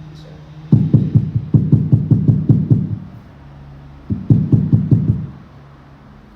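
Rapid runs of dull knocks, about six or seven a second: a long run starting just under a second in, then a shorter run after about four seconds, with a faint low hum in the gaps.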